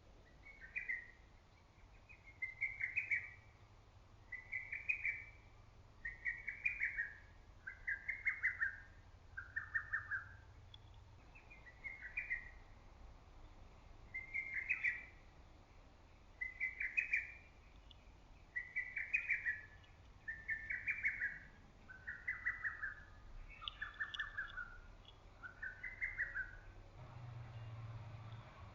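Lesser cuckoo singing its loud repeated song, a short phrase about every two seconds, in two runs whose phrases step down in pitch. A faint low rumble comes in near the end.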